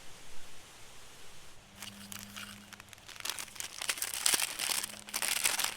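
Paper instant-oatmeal packet crinkling and being torn open: bursts of crackling rustle start about two seconds in and grow busier.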